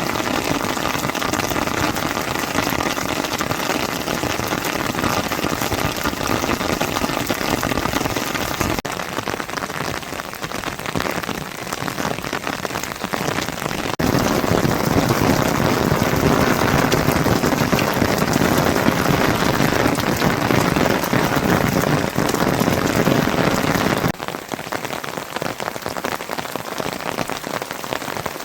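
Rain falling steadily, a dense even hiss. Its sound changes abruptly several times and is loudest and fullest from about 14 to 24 seconds in.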